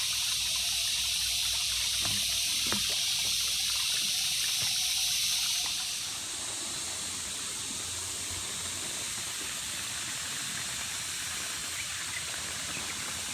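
Water trickling and splashing steadily into a koi pond, a little quieter from about six seconds in.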